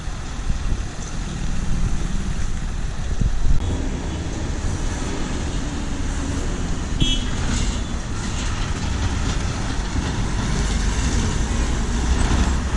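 Heavy vehicle engines running with a steady low rumble amid bus-station traffic noise, and a short, high horn toot about seven seconds in.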